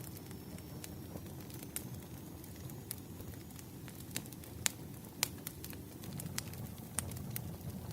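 Fireplace crackling: irregular sharp pops and snaps of burning wood over a low steady rumble of the fire, with a few louder pops around the middle.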